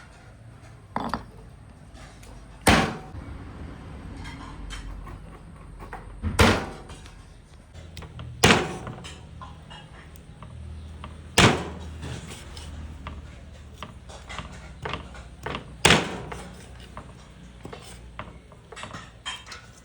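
A series of sharp knocks: about six loud ones a few seconds apart, each ringing briefly, with lighter taps and clicks between them.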